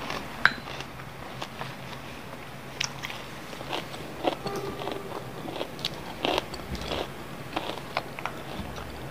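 A person chewing and biting food close to the microphone: irregular small crunches and mouth clicks, the sharpest a little under half a second in.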